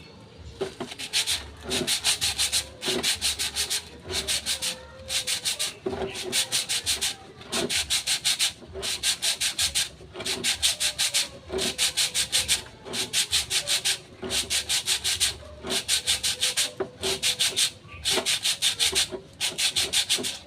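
Sandpaper rubbed by hand against a metal brake drum, in short bursts of quick back-and-forth strokes about once a second: the drum surface is being smoothed by hand-sanding.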